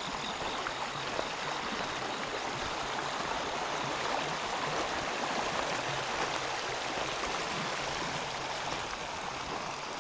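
Steady rushing of flowing river water, a little louder in the middle.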